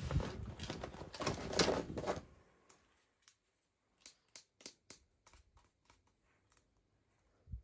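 Plastic toy packaging being handled: a loud crinkling rustle for about two seconds, then a string of light, uneven clicks and taps, and a soft thump at the end.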